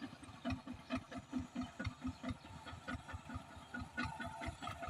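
Hand tractor engine idling with an even chugging beat of several low knocks a second.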